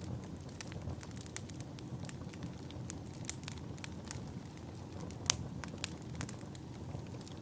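Wood fire burning in a fireplace: a steady low rumble of flames with irregular crackles and pops, the sharpest pop a little past halfway.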